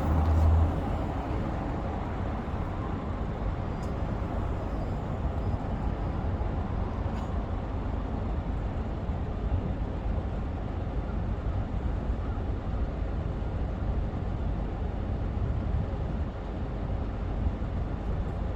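Steady city street traffic noise, a low rumble of passing vehicles, slightly louder in the first second.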